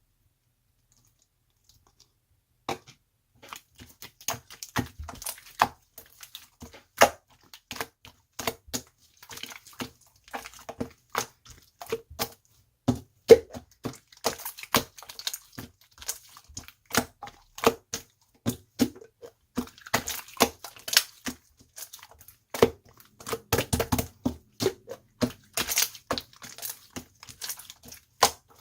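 Orange marbled slime being played with, making many irregular sharp pops and crackles. It starts after about three seconds of silence.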